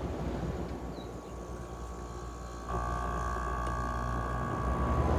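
5,000 BTU window air conditioner running on low cool; about two and a half seconds in, a steady hum with a whine of several tones starts and stays on, the compressor kicking on.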